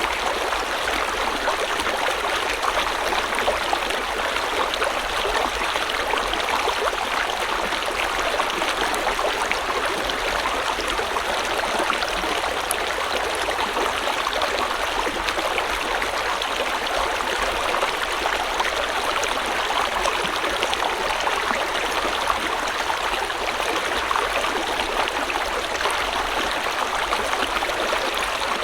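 River or stream water flowing steadily, a continuous rushing with fine trickling and splashing detail.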